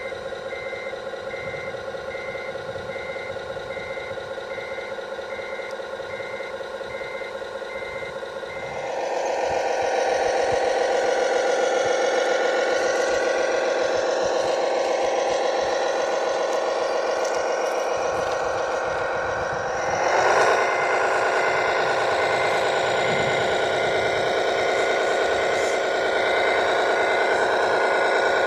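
A vehicle's reversing alarm beeps steadily over a running engine hum. About nine seconds in, a louder engine sound takes over with the beeping fainter beneath it, and the engine revs up briefly near twenty seconds.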